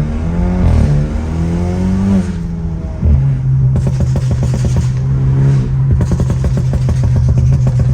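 Straight-piped, stage 2 tuned BMW F30 328i's turbocharged four-cylinder revving, its pitch rising and falling, then about three seconds in settling to a steady run with a rapid train of exhaust crackles and pops.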